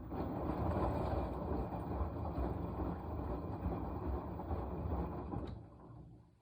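Washing machine turning its drum during the wash cycle: about five and a half seconds of steady churning noise that starts abruptly and then fades away.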